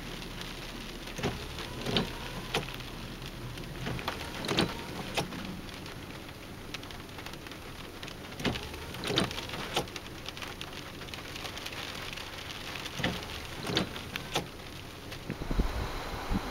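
Light rain: scattered drops tapping one by one on a car's windshield over a steady hiss, with a brief low rumble near the end.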